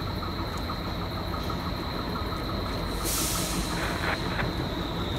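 Train approaching through a tunnel toward the platform: a steady rumble with a high, steady whine, and a brief loud hiss of air about three seconds in.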